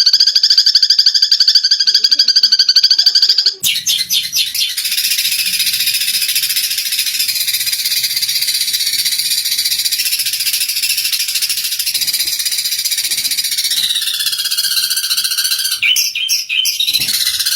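Eurasian tree sparrows chattering aggressively as they fight. A fast, buzzy trill runs for the first few seconds, then turns into a dense mass of overlapping chirps, with a few separate sharp chirps near the end.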